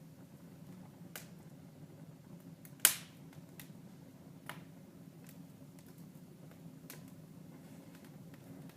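Wood fire crackling: scattered sharp pops and clicks over a low steady background, with one loud pop about three seconds in.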